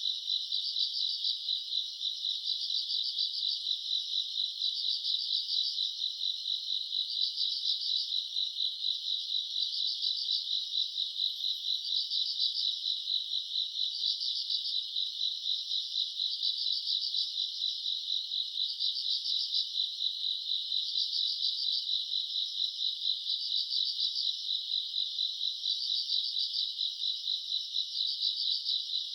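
Chorus of grass insects such as crickets calling at night: a steady high trill, with pulsed chirps over it that repeat about every two seconds.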